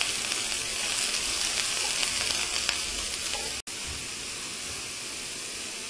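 Raw shrimp frying in hot oil in a skillet: a steady sizzling hiss. It cuts out for an instant a little after halfway, then goes on slightly quieter.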